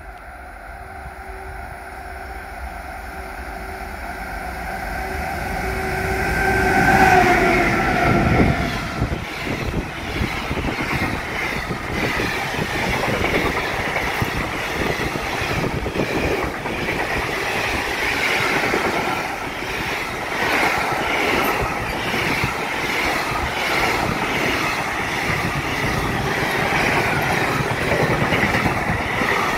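Freight train approaching and passing through: its sound grows louder for several seconds, and a steady tone drops in pitch as the locomotive goes by. It then becomes the steady rumble and rhythmic clatter of tank wagons and covered wagons rolling past over the rail joints.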